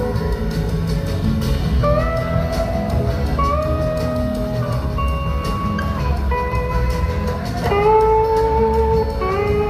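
Live band playing an instrumental passage: an electric slide guitar takes the lead with long held notes, sliding up into each new note, over bass and drums.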